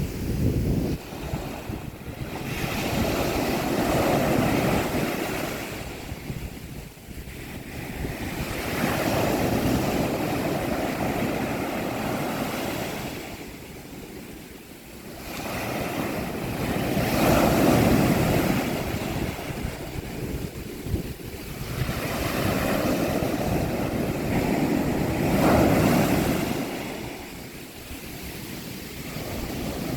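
Mediterranean Sea waves breaking on a beach: the surf swells and falls back in slow surges, about four times, each rising to a rush and ebbing away.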